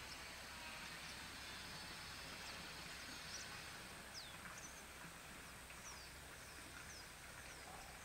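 Faint outdoor ambience: a low steady hiss, with a bird giving a run of short, high, falling chirps, about one every half second, through the second half.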